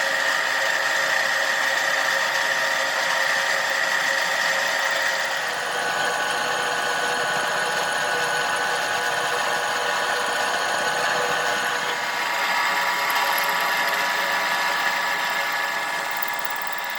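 A motor-driven machine running steadily with a continuous whine. Its tone shifts about five seconds in and again about twelve seconds in.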